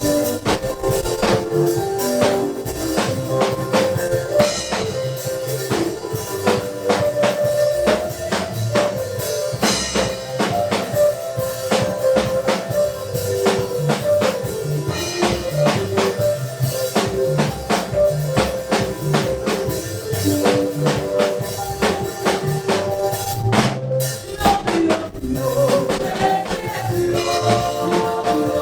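Gospel praise music played live by a church band: a steady, upbeat drum-kit beat under sustained pitched instrument lines. The drums break off briefly a little before the end, then come back in.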